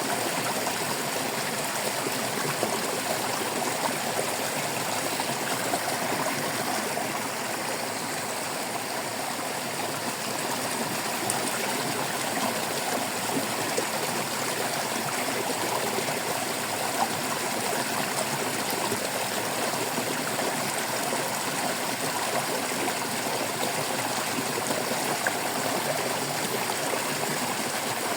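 Shallow stream water running and babbling over stones, a steady trickling and gurgling with many small splashes.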